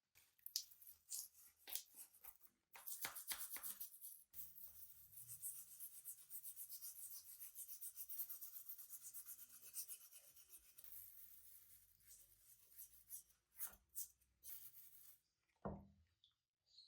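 Handling clicks at first, then a long run of quick back-and-forth scraping strokes as a part of an old hand plane is worked by hand, ending with a couple of clicks.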